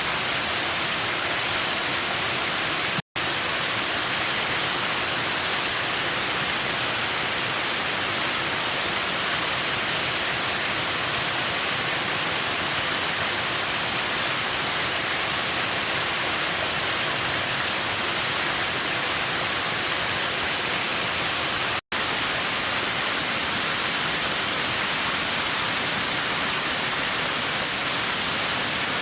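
Steady rush of water, an even hiss with no rhythm or pitch. It drops out for an instant about three seconds in and again about twenty-two seconds in.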